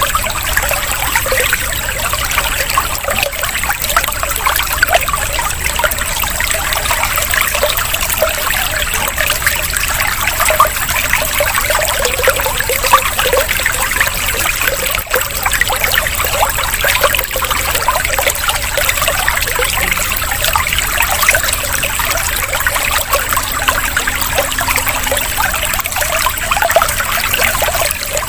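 Water trickling and burbling steadily with no pauses: a running-water therapy track used as a calming break between leafbird song recordings.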